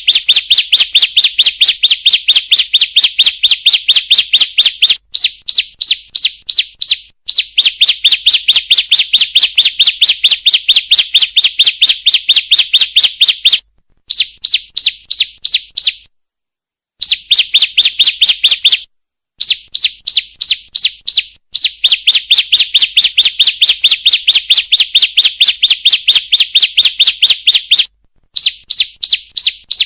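Bar-winged prinia (ciblek) calls played as a bird-trapping lure, the female's call used to draw males: rapid, evenly repeated high chirps in long runs broken by short pauses.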